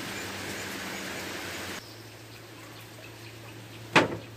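Steady hiss of rain falling on a pond, dropping abruptly to a quieter level about two seconds in, then a single loud sharp knock near the end.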